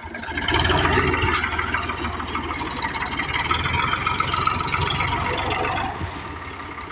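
Al-Ghazi tractor's diesel engine running hard, swelling about half a second in and easing off near the end.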